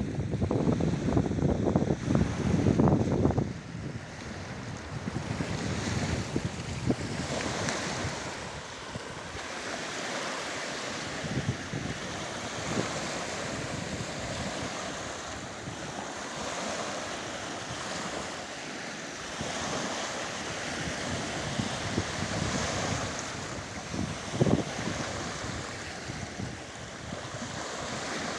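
Wind buffeting the microphone in heavy low gusts for the first few seconds, then a steady rush of wind and waves on the fjord water, swelling now and then.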